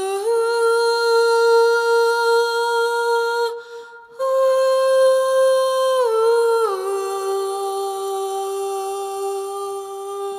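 A person humming long, steady held notes. One note is held for about three and a half seconds and there is a short pause for breath. A slightly higher note follows, steps down twice about six seconds in, and settles on a lower note for the last few seconds.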